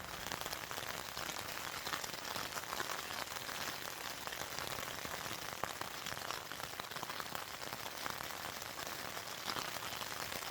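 Steady rain falling, with many small drop impacts heard as scattered ticks over an even hiss.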